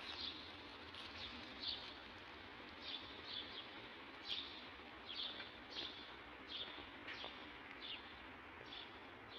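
Small birds chirping, short high calls repeated every half second or so, over a faint steady hiss of outdoor background noise.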